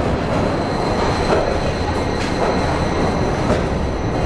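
Underground train pulling into a station platform, its cars running past with a steady loud rumble and a thin, steady high whine. A few sharp clicks of the wheels over rail joints come through along the way.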